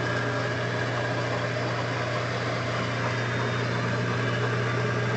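1940s Craftsman floor-model drill press running, its replacement electric motor giving a steady, even hum; the restored machine is running smoothly.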